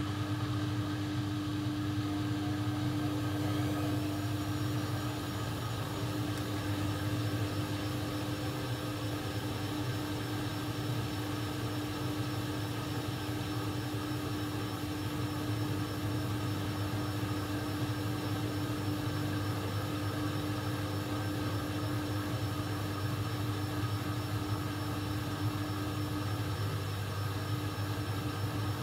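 AEG Lavamat 1400 washing machine running steadily: a constant motor hum with a steady whine that does not change or pause.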